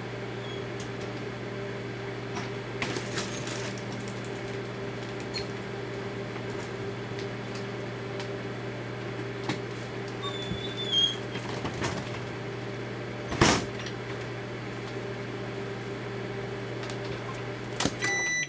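Daewoo microwave oven running with a steady hum, with scattered sharp pops and crackles from the Play-Doh and sealed containers inside, the loudest pop about thirteen seconds in, as the containers' caps pop off. The hum stops near the end as the cooking cycle finishes.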